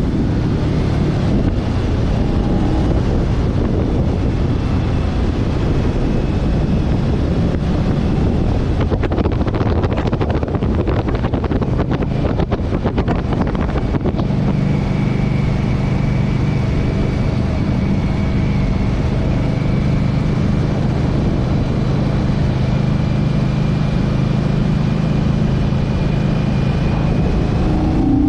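Motorcycle riding at speed: the engine runs steadily under a heavy rush of wind on the microphone. The wind buffets roughly for the first half, and from about halfway a steady engine hum comes through more clearly.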